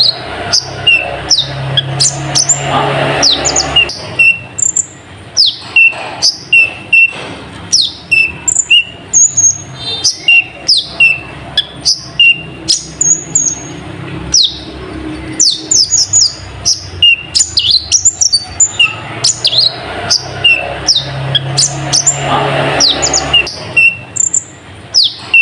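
Kolibri ninja (brown-throated sunbird) singing a fast, continuous run of sharp, falling chirps and short repeated whistle notes. A low droning hum swells under the song twice, early and again near the end.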